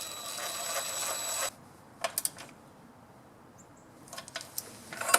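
Aerosol lubricant spray hissing in one burst of about a second and a half, with a thin whistle in the hiss. A few sharp clicks follow, then clattering handling noises near the end.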